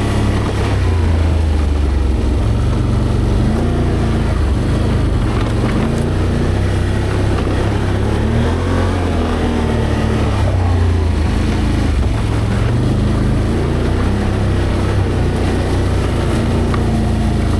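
V-twin ATV engine running under way on a trail, its pitch rising and falling with the throttle over the whole stretch.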